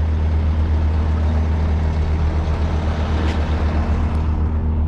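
Heavy rotator wrecker's diesel engine running steadily, a deep even drone.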